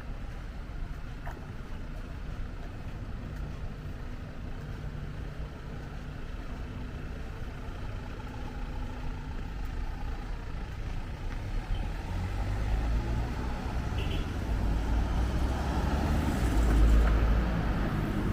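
Street traffic: vehicle engines and tyres rumbling, building over the last several seconds as a vehicle passes close, loudest shortly before the end.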